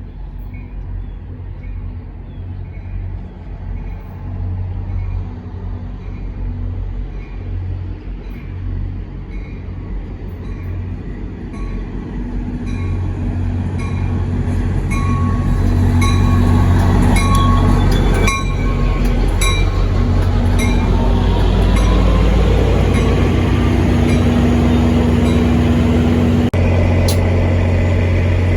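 A diesel-hauled NJ Transit commuter train coming into the station: the locomotive's low engine drone grows louder over several seconds, then holds steady and loud, with a regular light ticking running through it.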